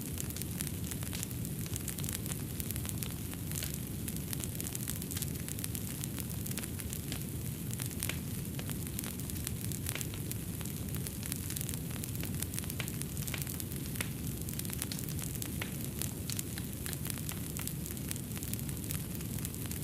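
Fireplace fire crackling: a steady low rumble of flames with frequent short, sharp pops and crackles all through.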